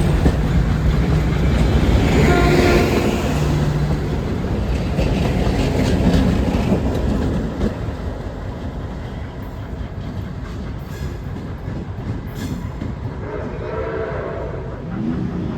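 Train rolling past, its cars clattering rhythmically over rail joints, with a short signal blast from the locomotive about two seconds in. The rumble eases off about halfway through.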